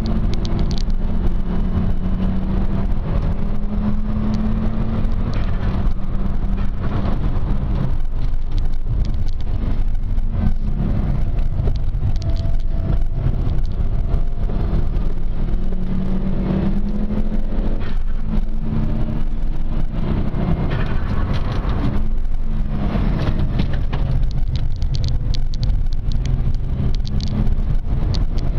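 Volvo 850 T-5's turbocharged five-cylinder engine heard from inside the cabin while lapping a circuit, its note rising under acceleration and dropping off as the driver lifts and changes gear, over a heavy low rumble of road and wind noise.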